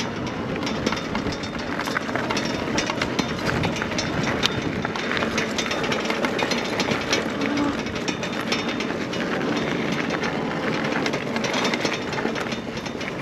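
Electric bike rolling over rough dirt ground: steady tyre rumble with many small rattling clicks from the wheels and frame.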